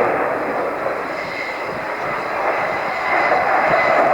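Jet aircraft in flight: a steady rushing engine noise with a faint high whine, swelling slightly about three seconds in.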